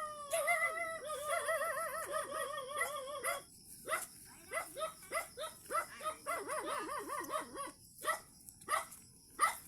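A dog whining in a long, wavering, high cry, then breaking into a run of short yips.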